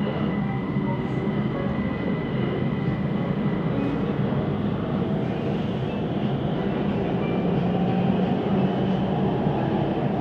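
Siemens Inspiro metro train running at speed, heard from inside the carriage: a steady rolling rumble of steel wheels on rail. A faint thin high whine over it fades after the first few seconds.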